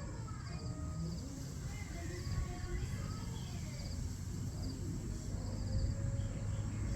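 Outdoor insect chorus: crickets or other insects chirping in short pulsed trills every half second or so over a steady high insect drone. Underneath runs a low rumble.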